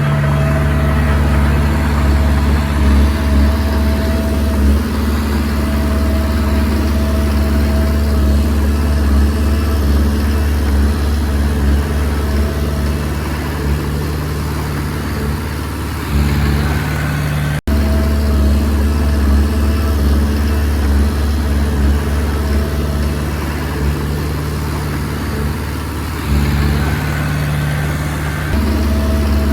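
Komatsu D20P bulldozer's diesel engine running as it works, its note rising and falling with the load. The sound drops out for an instant just past halfway.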